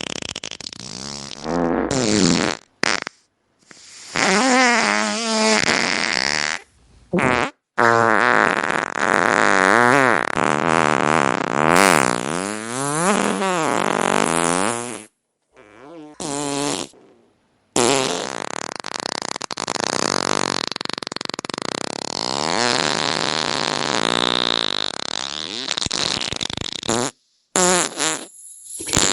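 A run of farts, one after another, each cut off abruptly by silence. Some are short, others last several seconds with a buzzy pitch that wobbles up and down.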